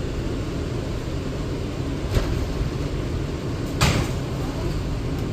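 Interior of an R179 subway car standing at a station, with a steady low hum throughout. Two sharp knocks come about two seconds in and again near four seconds.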